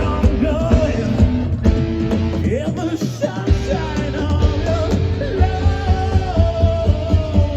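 Live rock band playing with a singer, electric guitar and a steady drum beat; the bass and kick drop out briefly about three seconds in, then the band comes back in.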